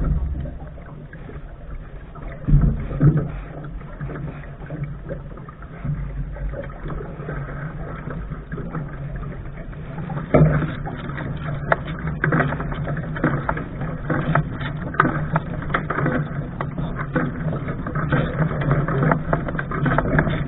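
Lark sailing dinghy under way: a steady low rumble of water and wind against the boat, with scattered knocks, getting a little louder towards the end.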